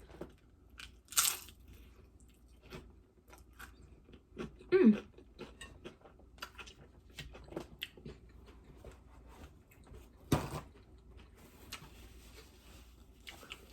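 Crisp tostada shell crunching and crackling as it is handled and bitten, with many small crackles, a sharper crunch about a second in and another about ten seconds in. Near five seconds a short, loud vocal sound that falls in pitch.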